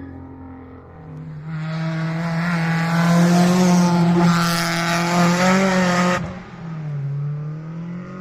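Historic rally car's engine at full throttle as it comes past on a stage, its note swelling to a loud, steady pitch. About six seconds in the sound cuts off sharply to a lower, wavering engine note.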